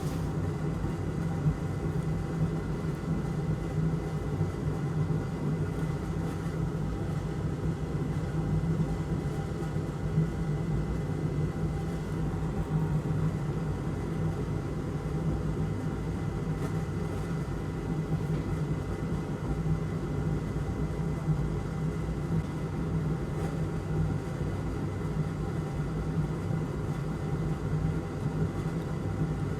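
Steady whirring hum of a small electric fan running at the workbench, with a thin high whine held over it.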